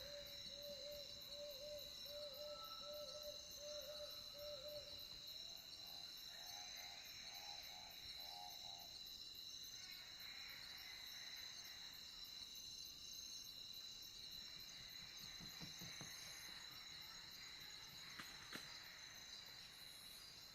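Faint night ambience: a steady high chirring of insects such as crickets. Over it, for the first five seconds, comes a rapid series of soft hooting notes, about two to three a second, then a few short clustered calls.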